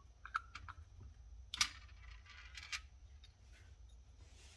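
Scattered light metal clicks and taps of a screwdriver and small outboard-motor parts being handled, a screw being run down into its seat, with a sharper click about a second and a half in and another near three seconds.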